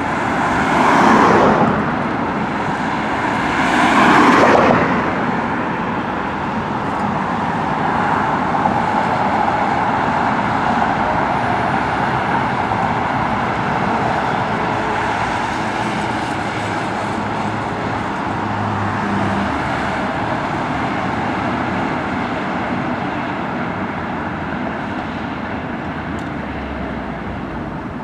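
Parade of motorcycles riding past: two loud pass-bys about one and four seconds in, then the steady, dense engine noise of many motorcycles going by.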